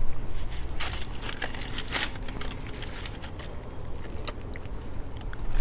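Burrito's foil wrapper crinkling and crackling with eating noises, in short irregular bursts, loudest about one and two seconds in, over a low steady rumble.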